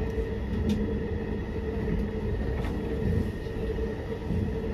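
Local train running along the line, heard inside the carriage: a steady low rumble of wheels and running gear under a constant hum, with two light clicks.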